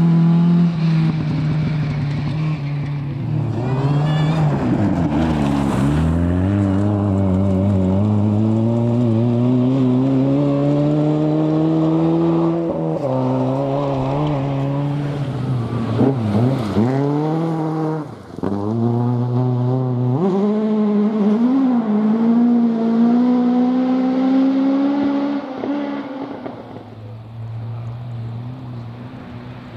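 Rally car engine accelerating hard through the gears, its pitch climbing and dropping back at each shift or lift, with a few sharp cracks at the lifts. It fades away near the end.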